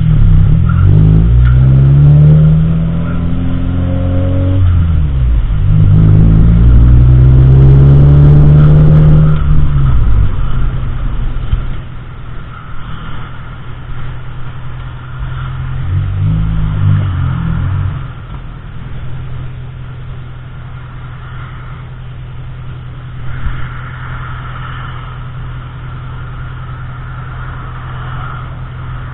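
Car engine accelerating twice in the first ten seconds, its pitch climbing and falling as it revs, then settling into a steady, quieter hum while cruising, with a brief rev about two-thirds of the way through.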